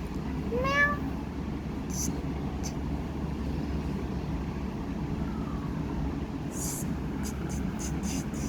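A domestic cat meows once, a short call rising in pitch about a second in, over a steady low background rumble; a few faint sharp clicks follow later.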